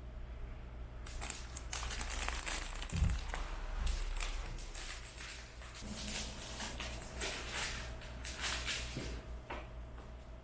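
Crinkling and crackling of something being crumpled and handled by hand, starting about a second in and dying away near the end.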